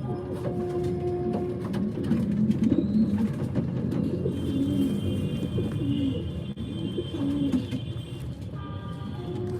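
Several pigeons cooing, low rolling calls repeating and overlapping, with a steady tone in the background.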